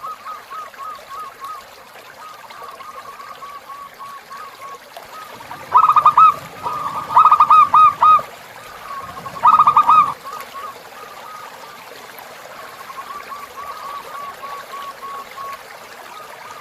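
Zebra dove (perkutut) cooing in long chains of short, quick notes, with three louder bursts of cooing about six to ten seconds in, over a steady trickle of running river water.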